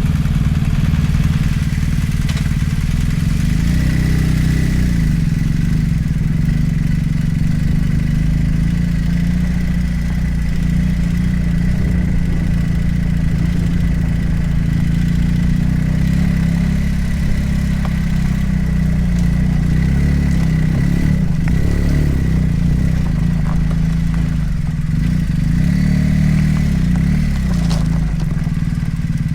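Motorcycle engine running steadily under way, its pitch dipping and rising a few times as the throttle changes.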